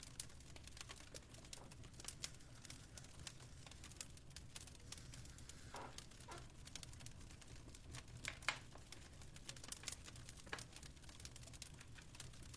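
Fireplace fire crackling quietly: irregular small pops and snaps over a steady low rumble, with one sharper snap a little past the middle.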